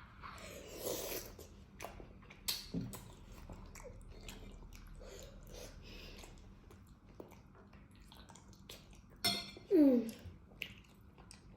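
Close-up mouth sounds of eating a chewy potato snack: chewing, wet smacks and small clicks. Near the end comes a short, loud sliding sound that falls in pitch.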